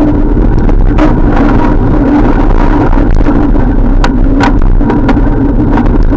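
Loud, steady rumble of wind and road noise picked up while riding a bicycle, with a constant hum and a few short clicks.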